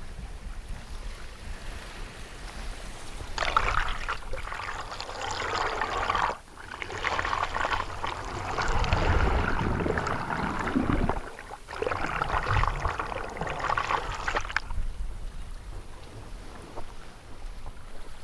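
Sea water rushing and splashing along the hull of a sailboat sailing upwind in a swell, in three surges of about three, four and three seconds, over a low steady rumble.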